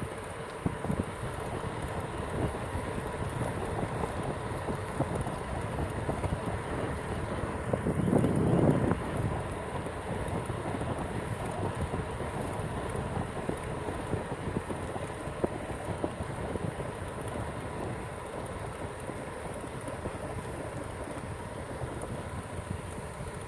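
Dense chorus of many frogs calling, a steady crackling mass of rapid calls, with wind rumbling on the microphone and a stronger gust about eight seconds in.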